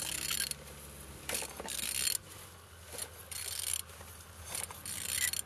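A used engine being turned over by hand, with four separate spells of mechanical whirring and clicking as the crankshaft is rotated. The engine turns freely and is not seized.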